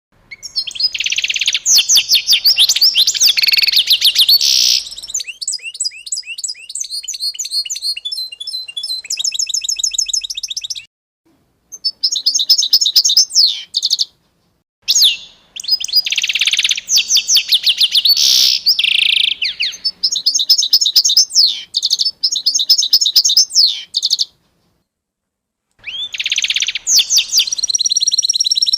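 A songbird singing long, rapid phrases of high chirps and trills. The song breaks off abruptly into dead silence a few times, as if the recording were cut.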